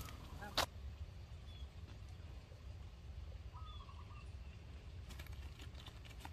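A few faint, short bird chirps over a low steady rumble outdoors, with a sharp click just over half a second in and a few light clicks near the end.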